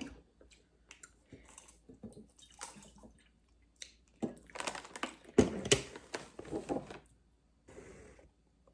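Chips being chewed close to the microphone: scattered crunches and wet mouth sounds, busiest in the middle and fading out near the end.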